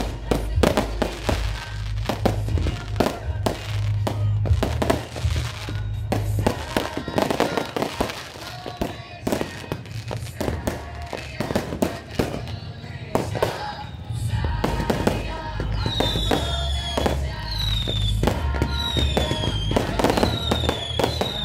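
Fireworks going off in rapid, irregular bangs over loud music with a heavy bass. About three-quarters of the way through, a run of short falling whistles starts, coming about once a second.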